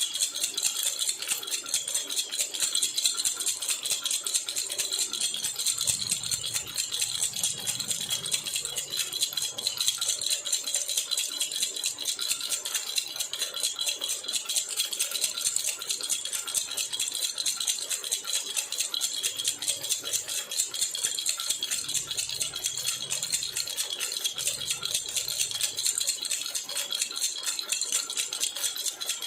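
Silver jhunjhuna baby rattle shaken without a break, a fast, even, high jingling rattle at a steady level.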